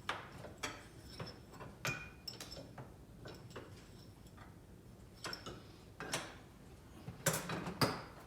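Irregular metallic clicks and clinks, some briefly ringing, of small metal parts and tools being handled during work on a metal lathe, with a cluster of louder knocks near the end.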